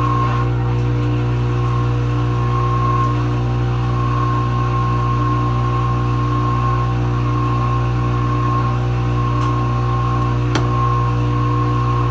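Kenmore Ultra Wash 3 dishwasher running its heated final rinse: a steady motor hum with water circulating. A single sharp click about ten seconds in.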